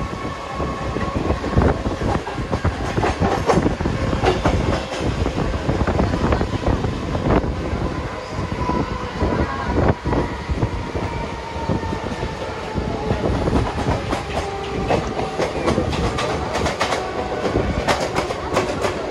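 Electric suburban local train running on the track, its wheels clattering over rail joints in many irregular clicks. A steady whine slowly falls in pitch over the second half.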